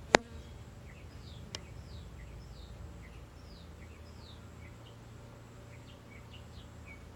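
A sharp click just after the start and a fainter one about a second and a half in. Then a bird gives short, falling chirps, about two a second, over a steady low hum.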